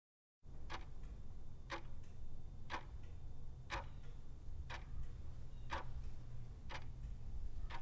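Clock ticking steadily about once a second, over a low steady hum.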